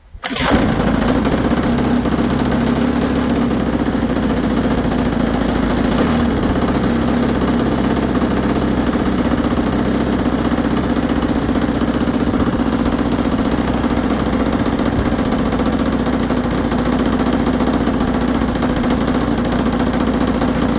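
OS GF40 single-cylinder four-stroke petrol model-aircraft engine firing up for the first time, catching suddenly just after the start and then running at a steady speed.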